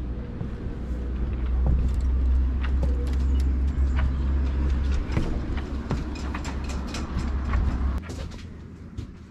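Wind rumbling on the microphone while footsteps and knocks sound on the sailboat's deck. The rumble stops about eight seconds in, leaving lighter clicks and clatter.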